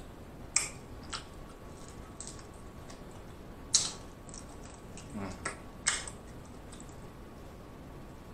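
Close-miked mukbang eating of king crab meat: wet mouth smacks and chewing, a handful of short sharp smacks scattered through the stretch, the loudest about half a second in and near four seconds in.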